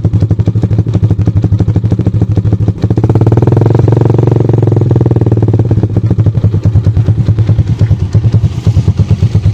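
Yamaha MX King 150's single-cylinder four-stroke engine running through an aftermarket slip-on exhaust, with an even beat of exhaust pulses. It is revved up briefly about three seconds in and drops back to idle about two seconds later.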